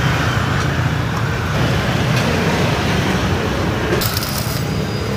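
Stick-welding arc from a Pro Tech 250 inverter welder set around 140–150 amps, crackling and hissing steadily as an electrode burns, with sharper high-pitched crackle from about four seconds in. The current is set a bit high for the rod: the arc is strong and digs in.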